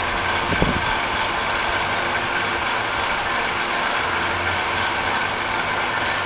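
Commercial refrigeration condensing unit running steadily, its compressor and condenser fans humming while the compressor pulls close to a full vacuum on its suction side. A brief knock about half a second in.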